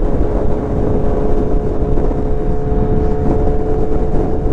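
Kawasaki Z900's inline-four engine running at a steady cruise under heavy wind rush, with a steady hum holding one pitch. Somewhere in the rush is a flapping noise that the rider can hear but cannot place.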